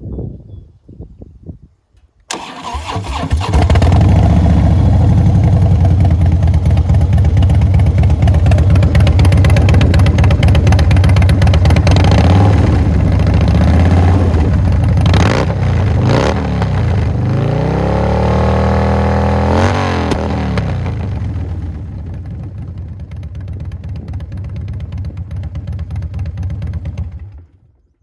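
Harley-Davidson Twin Cam 110 V-twin with Vance & Hines pipes starting about two seconds in and running loud. It is revved several times in the middle, the pitch rising and falling with each blip, then settles back to a lower idle and is shut off near the end.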